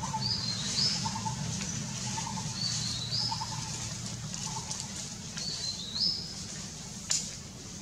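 Wild birds calling in the trees: one repeats a short, high two-part phrase about every two and a half seconds, while a lower short call repeats about once a second. A single sharp click comes near the end.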